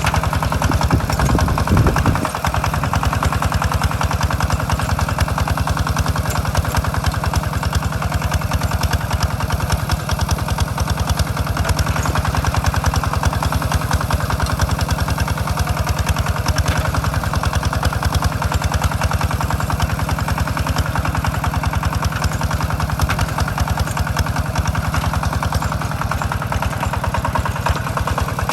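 Walking tractor's single-cylinder diesel engine running steadily with a fast, even chugging while it pulls a plough through a rice field. A brief louder low surge comes about one to two seconds in.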